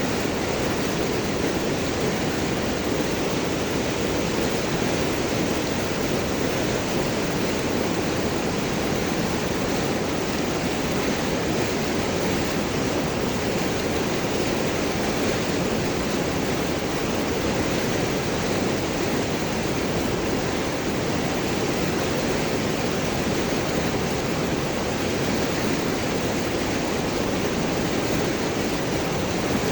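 River water rushing and gurgling over and around large rocks, a steady, even rush with no breaks.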